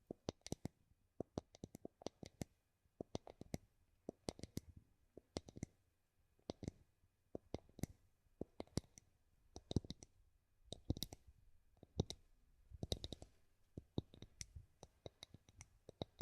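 Light tapping on a wooden surface: sharp, quick taps in small irregular clusters of two to four, one cluster after another.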